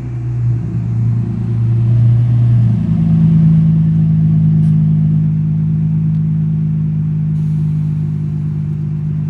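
Car engine and exhaust droning steadily under way, its pitch stepping up about three seconds in and then holding.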